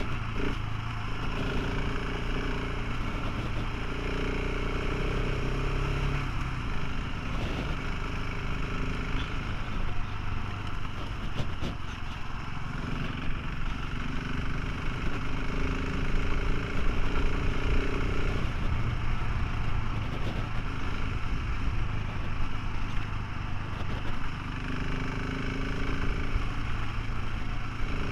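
Motorcycle engine running while riding, its note shifting up and down several times as the throttle changes, over constant wind and road noise.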